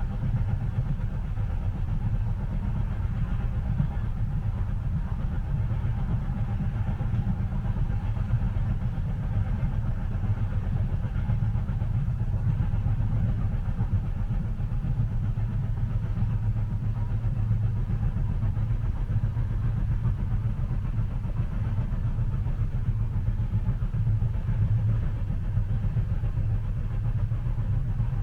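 Steady low rumble of a moving train heard from inside the passenger cabin, an even continuous drone with no distinct track clicks.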